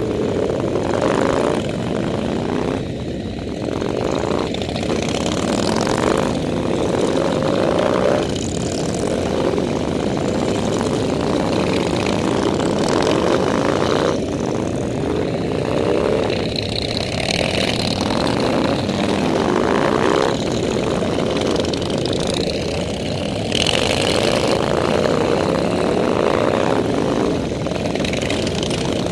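Motorcycle engines running steadily at riding speed, their pitch drifting up and down with the throttle.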